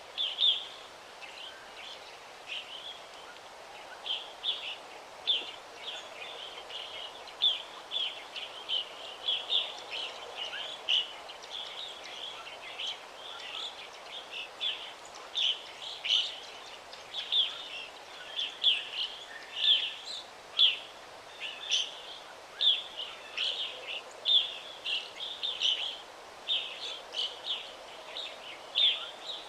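Forest songbirds chirping, short high chirps in quick, irregular succession over faint background noise.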